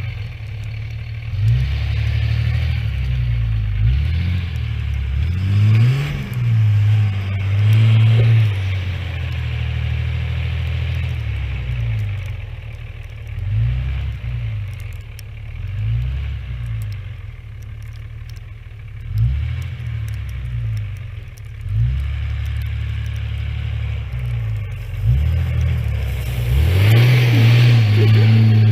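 Diesel engine revving up and easing off again and again, a surge every two seconds or so, as the vehicle is driven round in donuts. It climbs to a higher, steadier run near the end.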